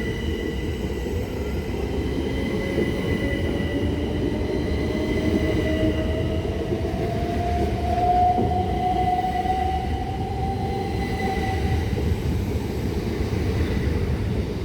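Class 375 Electrostar electric multiple unit pulling away and gathering speed. Its traction motors give a whine that rises slowly in pitch over about ten seconds, over a steady rumble from the wheels on the track.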